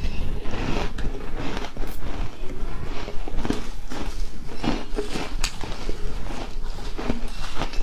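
Close-miked crunching and chewing of ice coated with matcha powder: a string of irregular crisp crunches.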